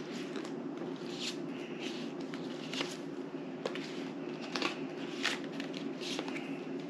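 Playing cards being handled and laid down: scattered light clicks and short rustles at an irregular pace, over a steady low hum in the room.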